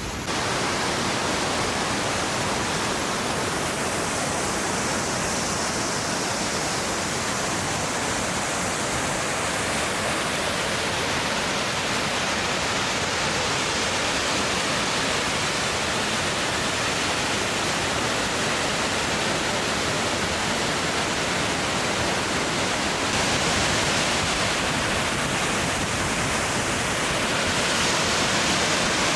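Steady, even rush of a tall waterfall, Abe Great Falls, dropping some 80 to 90 metres.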